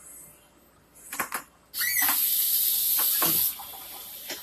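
A couple of light knocks, then a kitchen faucet turned on: water rushes out loudly with a high hiss for a second and a half, then settles to a quieter steady flow.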